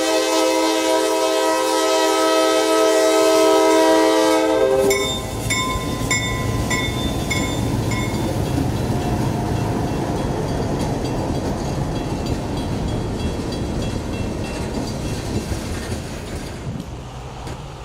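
Diesel freight train passing: the locomotive's multi-chime air horn sounds one long held chord that stops about five seconds in. A few evenly spaced rings follow, and then the train's rumble and wheel clatter on the rails slowly fade.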